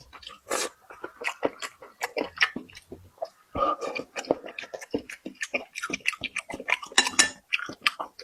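A person chewing and biting food, a dense run of quick, irregular crunches and mouth clicks.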